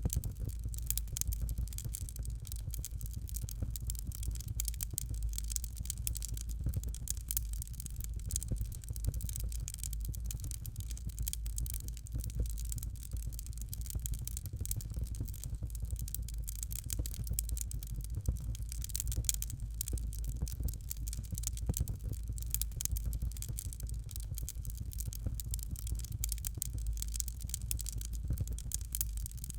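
Fire crackling in a fireplace: a dense, continuous run of small crackles and pops over a steady low rumble.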